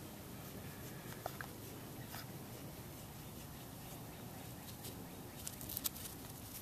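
A small animal chewing a tortilla: faint soft crunching and clicks over a steady low hiss, with a small cluster of clicks near the end.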